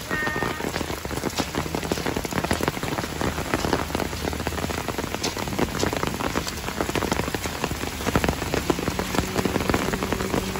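Heavy rain falling on the ground and shelter: a dense, steady patter with many sharp drop hits.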